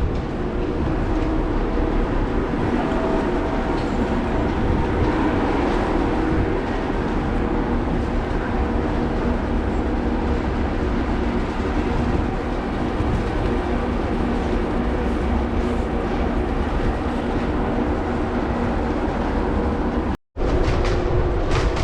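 Steady running noise of a moving vehicle heard from on board: a low rumble with a constant hum. It cuts out for a split second near the end.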